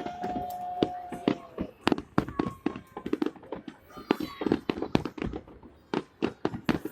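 Fireworks salute: a dense, irregular string of sharp bangs and crackles from bursting shells. A steady tone sounds over them for about the first two seconds.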